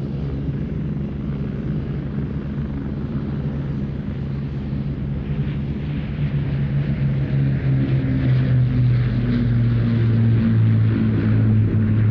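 Piston-engined propeller aircraft engines droning steadily, growing louder as the aircraft approaches.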